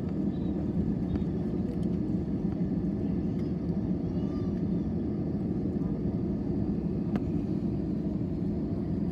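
Steady low rumble inside an airliner cabin, from the running jet engines and the cabin air system.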